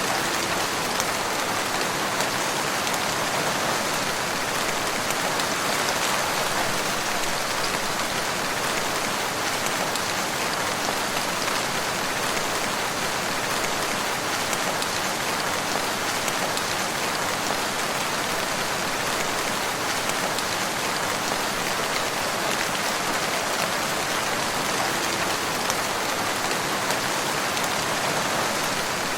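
Steady rain falling in a wood, an even dense hiss of drops with faint scattered patters.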